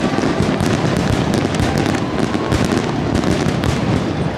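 Fireworks going off in a rapid barrage: a dense, continuous run of booms and crackling bursts with no gap between them.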